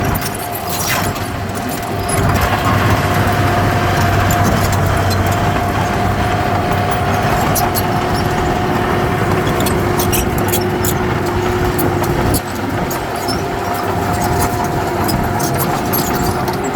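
Heavy diesel earthmoving machinery running under load, with a steady whine over the engine noise. The machine gets louder about two seconds in and eases off suddenly about twelve seconds in.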